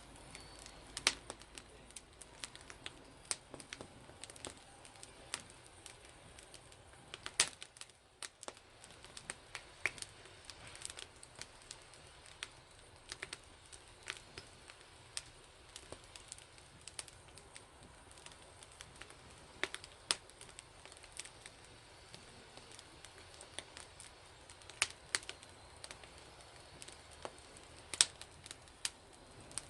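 Wood fire crackling, with sharp pops at irregular intervals.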